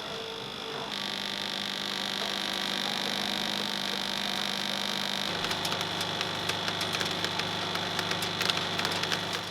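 Button-making machinery running with a steady hum and several held tones. The sound shifts abruptly twice, and in the second half rapid irregular clicking runs over the hum.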